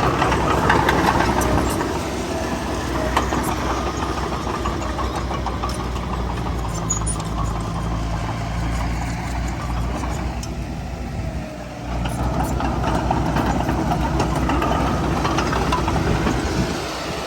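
Heavy diesel earthmoving machinery running steadily, with scattered metallic clanks. The engine sound drops briefly about twelve seconds in, then comes back up.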